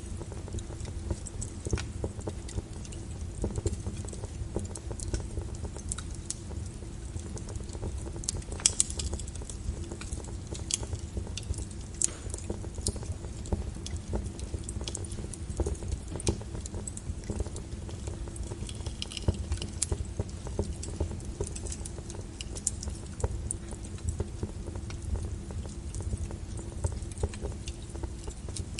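Wood fire of burning logs in a fireplace, crackling and popping irregularly over a low steady rumble of the flames.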